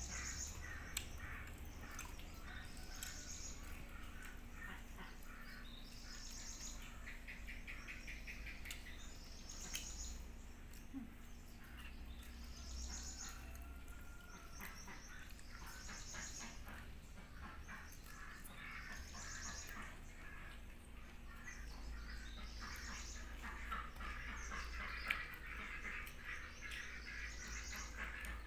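Birds calling outdoors: a short high call repeats every few seconds, with quicker chirps and trills in between.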